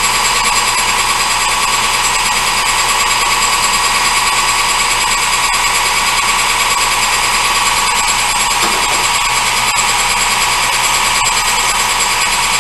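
Metal lathe running steadily, a machine whine of several steady high tones over an even mechanical noise.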